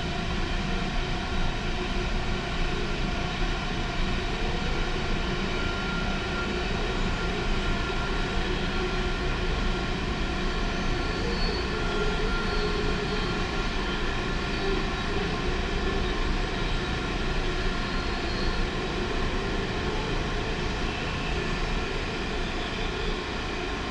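Coal train passing, a loud, steady rolling noise with several faint steady tones through it and no break.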